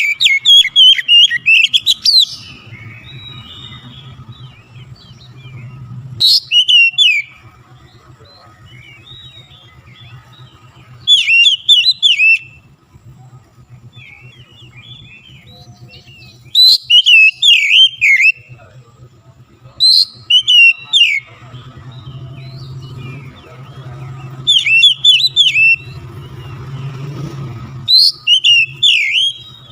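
Oriental magpie-robin (kacer) in full song: about seven loud phrases of rapid, sweeping whistled notes, each one to two seconds long and a few seconds apart, over a faint low hum.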